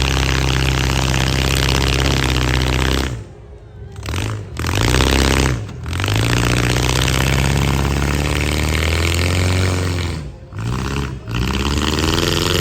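Demolition derby car engine revving hard and held at high revs for a few seconds at a time, falling off and climbing back up several times, with a harsh scraping, rushing noise as the car pushes against another.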